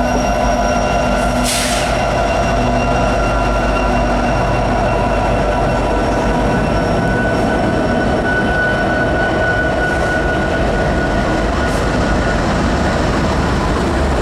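Loaded Herzog ballast train cars rolling past at slow speed: a loud, steady rumble with a sustained ringing squeal from the wheels, and a brief hiss about a second and a half in.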